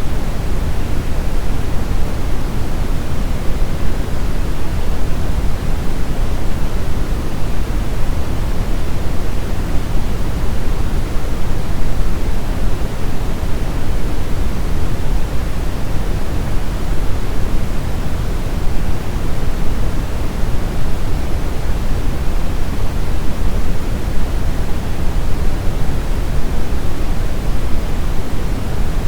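Steady synthetic brown noise: an even, deep rushing hiss weighted toward the low end, with no changes or events.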